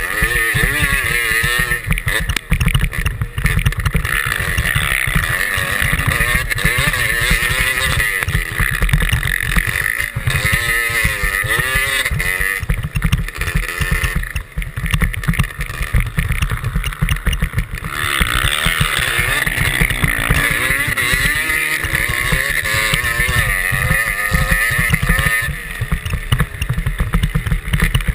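Motocross bike engine revving up and down hard as it tows a skier on snow, its pitch rising and falling with throttle and gear changes, under heavy wind buffeting on the microphone.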